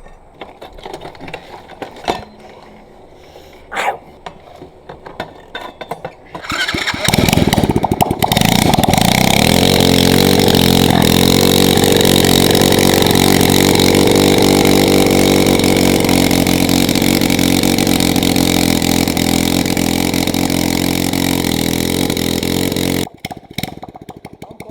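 A pit bike's single-cylinder engine starts about a quarter of the way in and is held at steady high revs, spinning the rear tire in a burnout. It cuts off abruptly near the end. Before it starts there are only a few scattered knocks.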